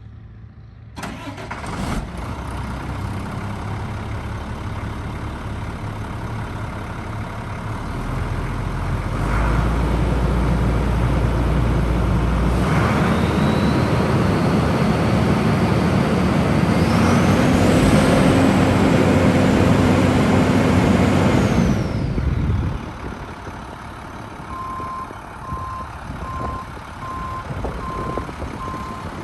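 International 4700 truck's diesel engine starting about a second in and idling. It is then run up for several seconds with a rising whine, and drops back to idle. Near the end a repeated electronic beep sounds over the idle.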